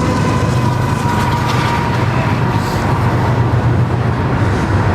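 Yamaha Stryker's 1300cc V-twin idling steadily through an aftermarket Cobra 2-into-2 exhaust, a low even rumble.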